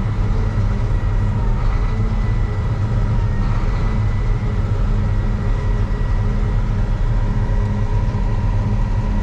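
Combine harvester running with its threshing rotor turning: a steady, loud drone with a thin, steady high whine over it.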